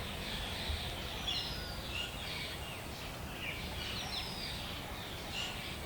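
Wild birds chirping and calling, with several short chirps and a few thin, falling whistles, over a steady low outdoor rumble.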